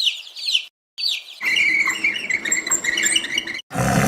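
Chickens peeping in quick, high, falling chirps, breaking off briefly, then a dense run of chirping. Near the end a loud, rough noise cuts in.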